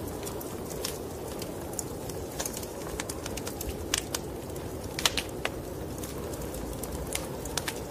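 Wood fire in a fireplace crackling, with sharp, irregular pops over a steady low rushing noise.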